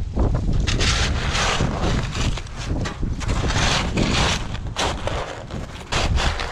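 Wind buffeting the microphone in gusts, a heavy low rumble, with irregular short scuffing and crunching noises.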